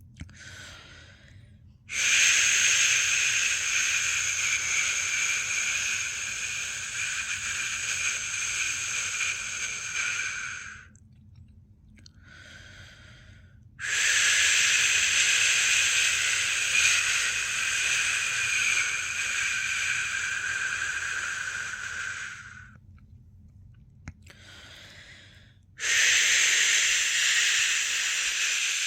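A person's long 'shhh' shushing, the sleep-inducing sound for a newborn: three long shushes of about eight to nine seconds each. Between them come short, quieter in-breaths.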